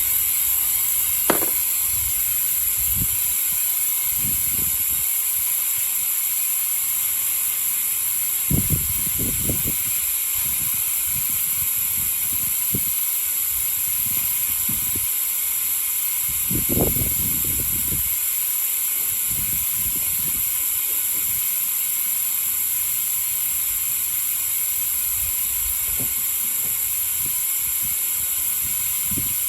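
Oil extractor sucking old engine oil out of the engine, a steady hiss that does not change, with a few low knocks of handling about a second in, around nine seconds and around seventeen seconds.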